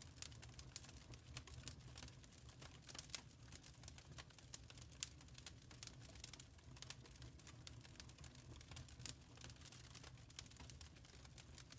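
Fire crackling in a fireplace: faint, irregular small pops and snaps over a low steady rumble.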